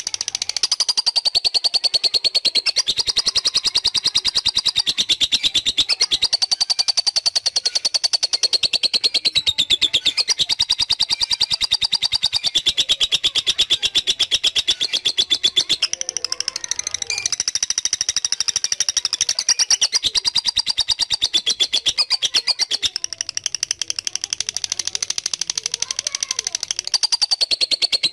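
Lovebird 'ngekek': a long, rapid, high-pitched chattering trill that runs on with barely a break.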